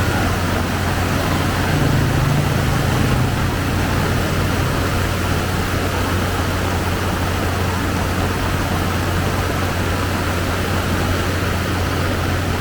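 Heavy tropical downpour: a loud, steady, dense hiss of rain, with a low steady hum underneath that briefly strengthens about two seconds in.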